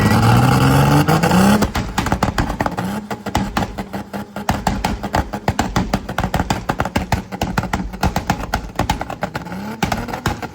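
Car engine revving, its pitch climbing over the first second and a half, then a sudden change to a fast, even pulsing over a steady hum. A short rise in revs comes again near the end.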